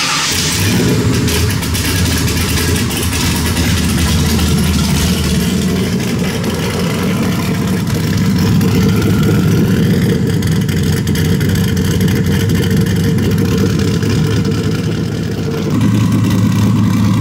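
Car engine idling steadily just after being started, its sound shifting slightly about five seconds in and rising a little near the end.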